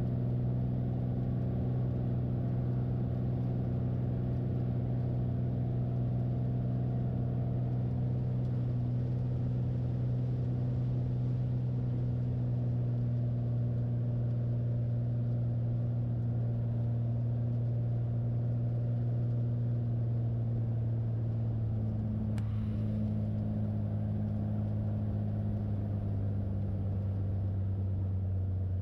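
Light airplane's engine running steadily with a low hum, its pitch stepping down slightly about three-quarters of the way through, with a brief click at the same moment.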